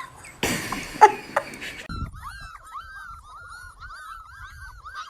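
A dog whining in a fast, unbroken string of short, high whimpers that starts about two seconds in, after a brief noisy stretch with a few sharp yelps.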